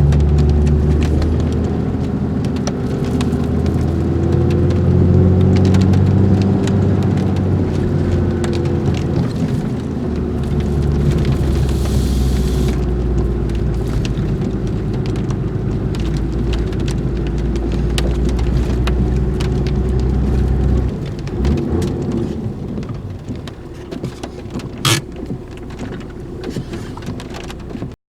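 Four-wheel-drive vehicle driving, its engine running with a low drone that rises and falls in pitch, over a patter of rain-like noise. After about twenty seconds the engine drone falls away, leaving lighter rattles and one sharp knock, and the sound then cuts off.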